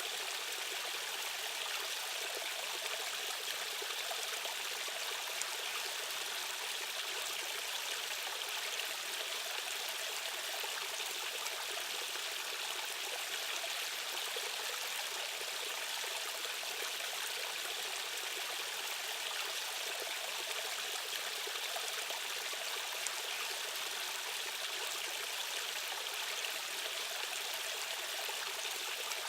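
Rushing stream water: a steady, even hiss of fast-flowing current with little deep rumble.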